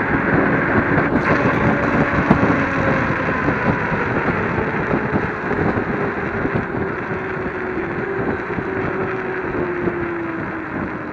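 Wind buffeting the microphone over road noise while riding an electric scooter, with a faint whine that slowly falls in pitch and the overall noise easing off near the end.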